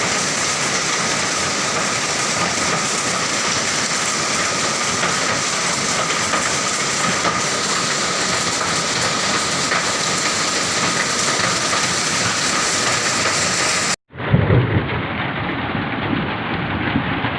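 Hail and heavy rain pelting down in a dense, steady hiss and clatter. About fourteen seconds in the sound cuts out for an instant and resumes with a deeper rumble under the downpour.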